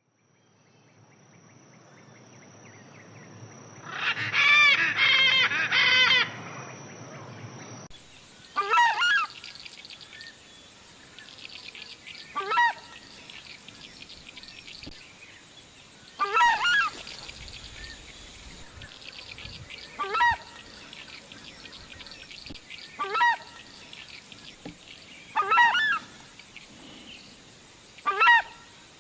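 Large bird giving loud, goose-like honking calls: a quick run of three about four seconds in, then single calls every three to four seconds, seven more in all. Behind them, from about eight seconds in, is a steady high-pitched drone.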